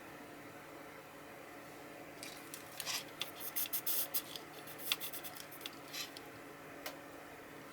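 Irregular short scratching and clicking sounds, bunched between about two and seven seconds in, over a faint steady hum.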